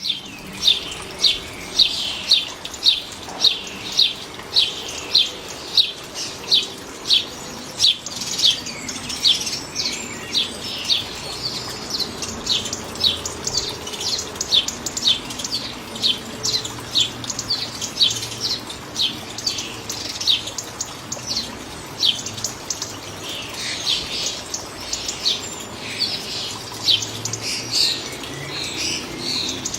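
A bird calling with short, high chirps, about two a second and evenly spaced, turning less regular towards the end, over a faint low hum.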